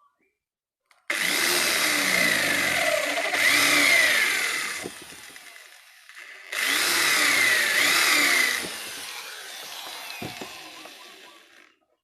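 Small handheld power tool running in two bursts, its pitch sliding up and down as it works the material, then tailing off near the end.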